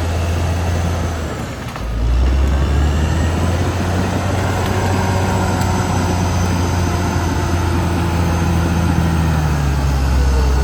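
Caterpillar D6R XL bulldozer's diesel engine running under load. It dips briefly, then picks up and gets louder about two seconds in, and holds steady after that.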